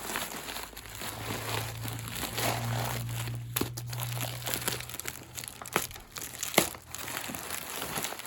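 Plastic packaging wrap crinkling as a well-wrapped package is pulled open by hand, with a sharp snap about six and a half seconds in. A low hum sounds from about one second in until about five seconds.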